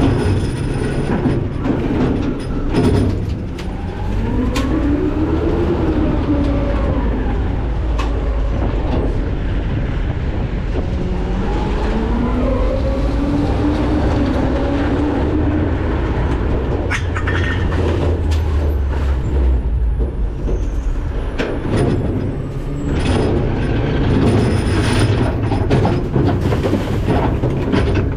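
McNeilus ZR garbage truck's hopper and packer at work: a heavy steady mechanical rumble with trash being crushed, scattered cracks and knocks, and long squeals that glide up and down twice as the load is packed.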